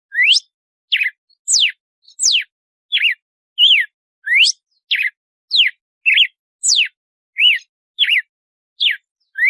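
Red-cowled cardinal (galo-de-campina) singing its 'açoite' song: a steady series of clear whistled notes, about two every second, some sweeping sharply upward and others falling.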